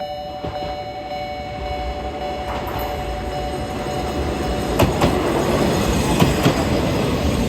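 A diesel railcar on the Watarase Keikoku Railway running in over the rails, its rumble building, with its wheels clacking sharply over rail joints several times in the second half. A level-crossing alarm rings its two steady tones over the first part.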